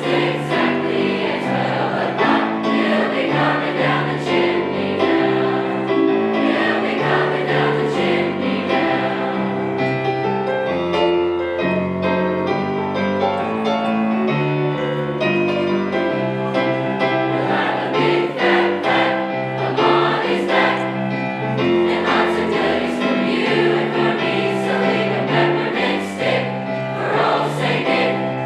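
A high school choir singing a Christmas song in parts with sustained chords, with piano accompaniment.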